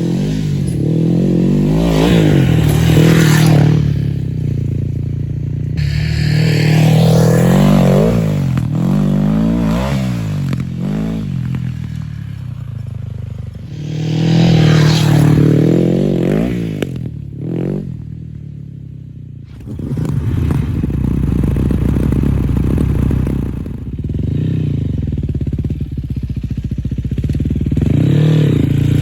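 Yamaha WR400F single-cylinder four-stroke enduro engine with its exhaust dB killer removed, revving up and down over and over. About 17 seconds in the engine falls away sharply for a couple of seconds, then picks up again and runs fairly steadily at a lower pitch.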